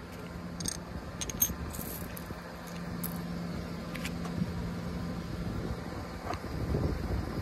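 Car engine idling with a steady low hum, with a few sharp light clinks of broken ceramic bowl fragments in the first half.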